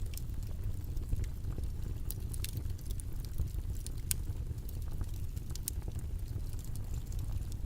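Steady low rumbling background noise with faint, irregular small clicks and crackles scattered through it.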